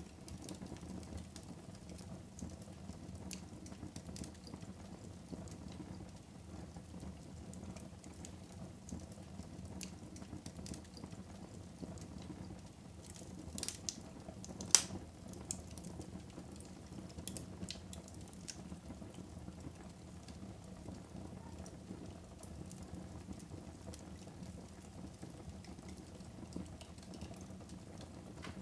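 Fire burning in a fireplace: a steady low rush with scattered crackles and sharp pops. A small cluster of crackles comes a little before halfway, and the loudest single pop about halfway.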